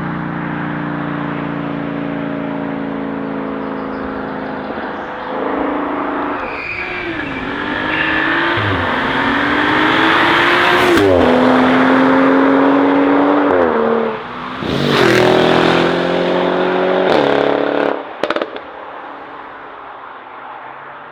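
A sports car's engine accelerating hard through several upshifts, its pitch climbing and dropping back at each gear change, with a few sharp cracks from the exhaust. The engine fades out near the end.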